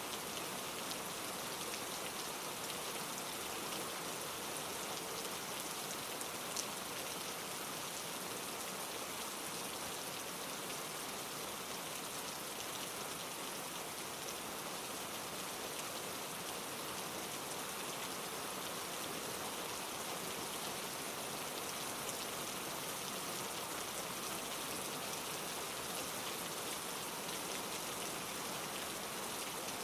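Steady gentle rain, a constant hiss of many small drops pattering on leaves, with one slightly louder drop about six and a half seconds in.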